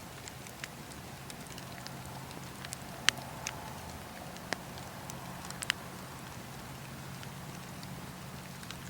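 Campfire of burning wood crackling, with scattered sharp pops and snaps over a steady low rumble; the loudest pops come about three seconds in and again near six seconds.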